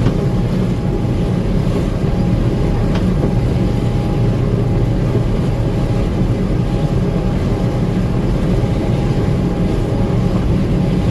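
Gleaner M2 combine running steadily while harvesting corn, a continuous loud machine drone heavy in the low end with a faint steady whine above it.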